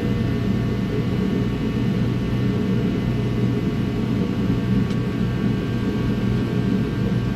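A steady mechanical hum holding several constant tones, with no change in speed.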